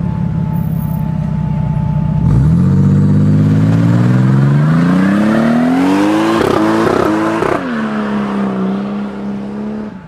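Toyota Supra MK4's inline-six engine running at a steady note, then accelerating hard with the pitch climbing for about five seconds. There are a few brief breaks near the top, then it drops back to a steady lower note when the throttle comes off.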